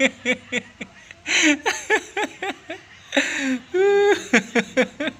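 A person laughing in a long run of short chuckles, broken by a few breathy snickers.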